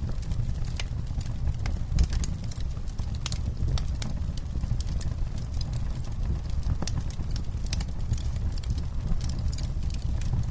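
Wood campfire crackling: irregular snaps and pops over a low steady rumble, with one louder pop about two seconds in.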